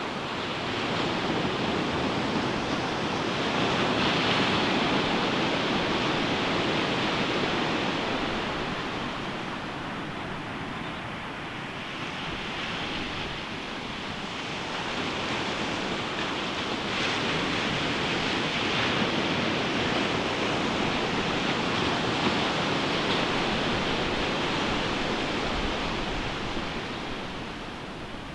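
Ocean waves breaking and washing up a sandy beach, a continuous surf noise that swells twice and eases off in between, with some wind on the microphone.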